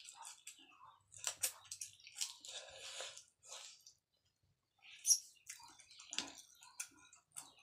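Close-up chewing and wet mouth sounds of a person eating by hand, with lip smacks and small irregular clicks. A brief pause about four seconds in, then a sharp click just after five seconds.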